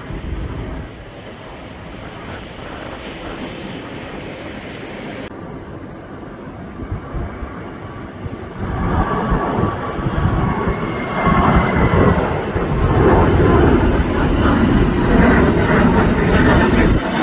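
Jet airliner's engines, a steady rushing noise that grows much louder about halfway through and stays loud, with a faint whine above it.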